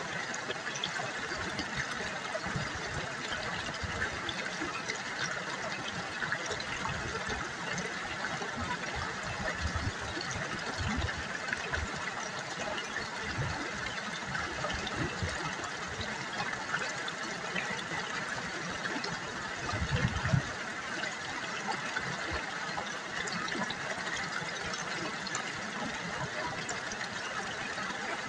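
River water babbling and trickling over stones in a steady, continuous rush. About two-thirds of the way through there is a brief low thump, the loudest moment.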